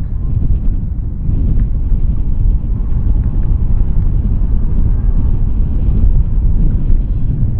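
Low, gusting rumble of wind buffeting the microphone.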